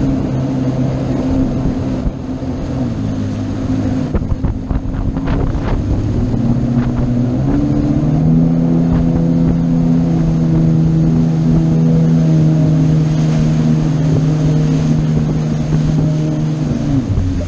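A boat's engine running under way. Its pitch steps up about eight seconds in as the throttle is opened, then drops near the end, with wind and water noise underneath.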